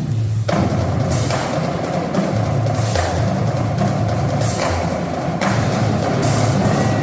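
Drumline music: drums and percussion playing a dense rhythmic passage over a steady low, pitched bass line.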